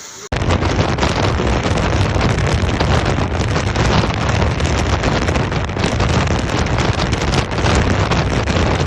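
Loud, steady rushing noise with a heavy low rumble, starting abruptly about a third of a second in: wind buffeting the microphone.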